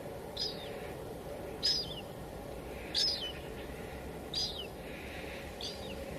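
Steady hiss of light drizzle, with a bird chirping over it five times at an even pace, about one call every second and a bit. Each call is short and drops in pitch.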